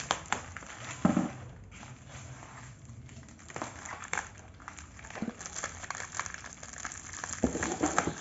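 Packaging being handled and unwrapped: uneven rustling and crinkling with scattered knocks, a louder knock about a second in and another near the end.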